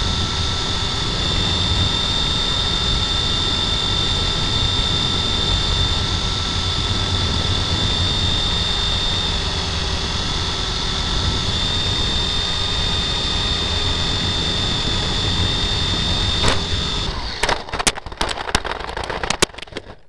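Model helicopter's motor and rotor running with a steady high whine and rushing noise. Near the end it breaks into a run of sharp knocks and clatter, then cuts off.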